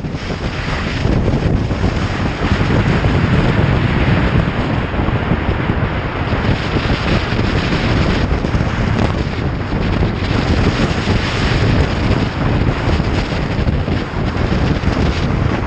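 Steady, loud wind noise rushing over the microphone of a camera on a motorcycle at riding speed.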